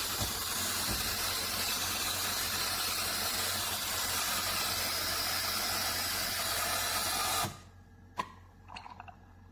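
Steady hissing with a low hum underneath, cutting off abruptly about seven and a half seconds in; a single click follows.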